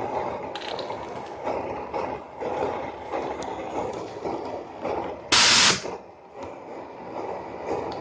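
Small homemade model steam engine running with an uneven mechanical chuffing, broken about five seconds in by a loud, half-second burst of hissing steam.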